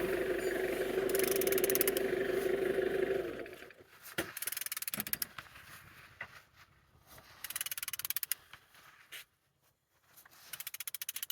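Engine crankshaft being turned over with a power tool: a steady motor whine for about three and a half seconds, which then stops. Several short runs of rapid ratchet-like clicking follow. The engine turns freely with compression on all cylinders.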